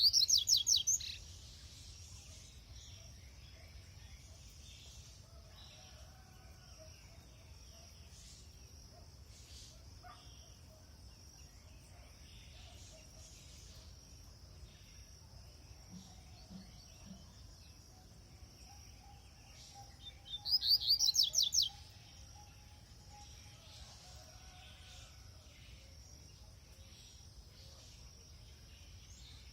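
Double-collared seedeater (coleiro) singing two short, rapid trilled phrases, one at the start and one about 20 seconds in. A steady high insect buzz runs underneath.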